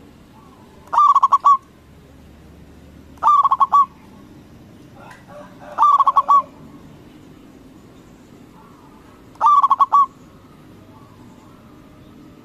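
Zebra dove (perkutut) singing: four short phrases of quick, rolling coos, a few seconds apart.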